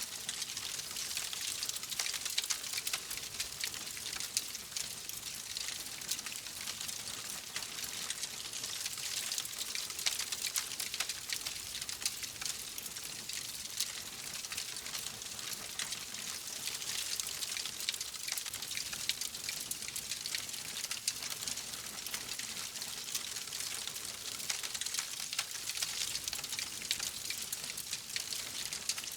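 Wood fire crackling steadily, with a dense run of small pops and snaps over a soft hiss.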